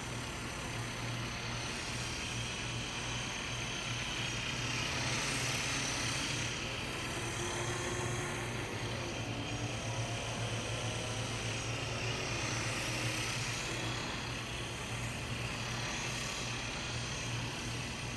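Small electric RC toy helicopter in flight: a steady motor-and-rotor buzz with a whine that rises and falls in pitch.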